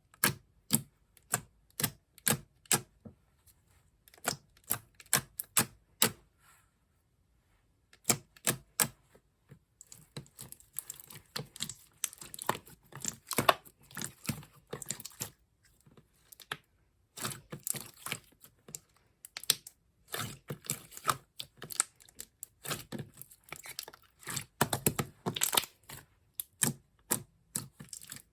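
Clear slime being pressed and stretched by hand, giving off quick runs of sharp pops and clicks with short pauses between them, thickening into denser crackling from about ten seconds in.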